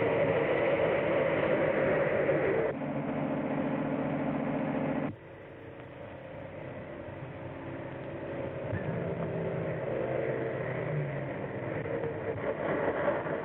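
Car engine running at speed during a chase, a steady drone with hiss. The sound changes abruptly twice in the first five seconds, then goes on quieter and slowly grows louder.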